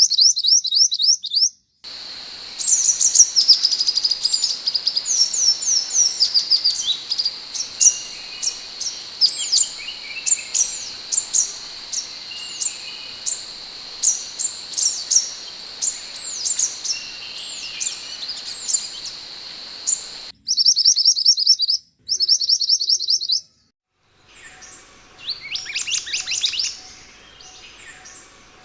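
Scarlet minivet calling: quick runs of short, high, sweeping chirps, several a second. A thin steady high hum sits under the first part, and the recording cuts abruptly between spliced sections.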